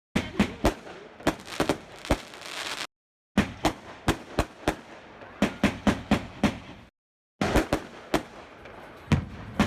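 Fireworks going off: a rapid run of sharp bangs and cracks, several a second. The sound breaks off into dead silence twice, about 3 and 7 seconds in, where short clips are cut together.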